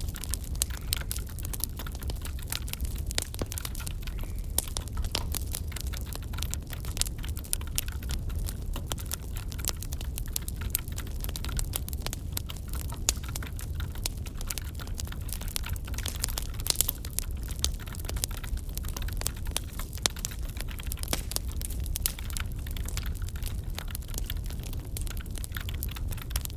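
Wood fire crackling in a fireplace: a steady low rumble of flames with irregular sharp pops and snaps of burning logs.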